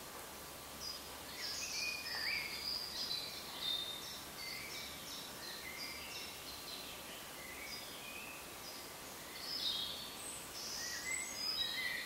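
Songbirds singing: many short, high chirps and whistled notes, some sliding down in pitch, over a steady background hiss. The song is busiest about two seconds in and again near the end.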